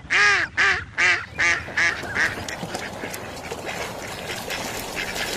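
A duck quacking: a quick run of about six quacks that grow quieter one after another, followed by steady background noise with faint clicks.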